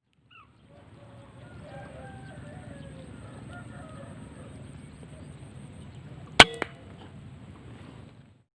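A PCP air rifle firing: one sharp crack about six and a half seconds in, with a second, softer knock a fraction of a second after it. Before the shot, birds call faintly over a steady outdoor background.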